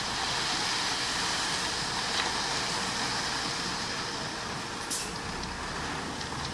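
Heavy earthmoving machinery running steadily, with one sharp click about five seconds in.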